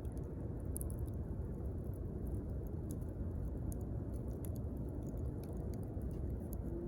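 Wood campfire crackling: scattered sharp pops and snaps of burning wood over a low, steady rumble of the flames.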